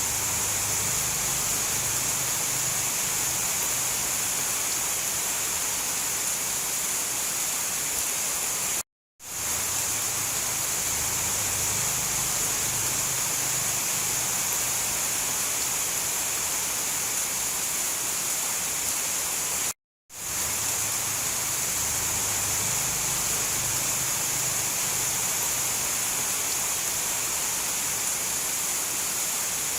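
Steady hiss of heavy rain. It cuts out to silence for a moment twice, at the joins of a repeating loop.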